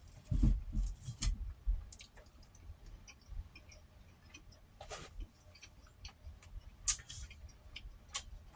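Close-miked eating sounds: soft scattered clicks and ticks from chewing and the mouth, with a few low thumps about half a second and a second in.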